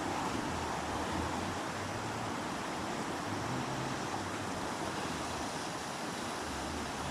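Mountain river rushing steadily, a constant even wash of water with some low rumble underneath.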